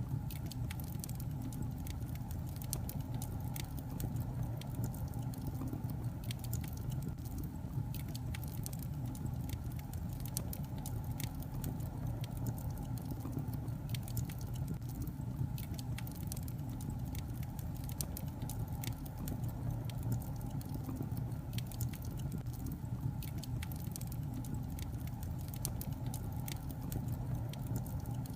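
Wood fire of burning logs crackling: a steady low rush of flame with frequent small irregular pops and snaps throughout.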